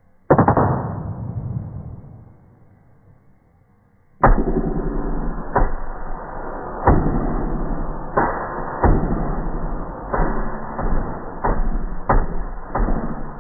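One sharp, heavy hit that dies away over about two seconds. After a short lull, a dense run of heavy hits begins at irregular intervals, with a steady low hum under them. The sound is dull and muffled, with no high end.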